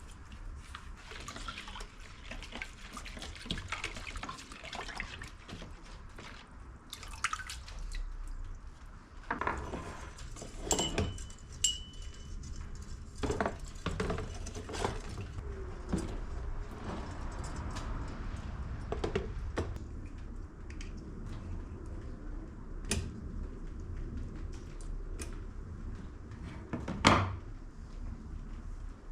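Metal parts being handled and rinsed in water: dripping and splashing with scattered clinks and knocks, and a brief high squeak about eleven seconds in.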